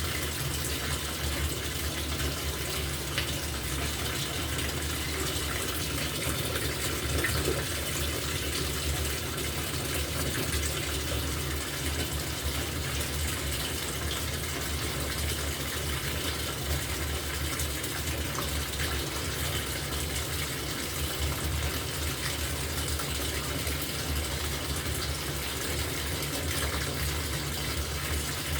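Water running steadily into the tub of an LG top-loading washing machine, with a low hum under it.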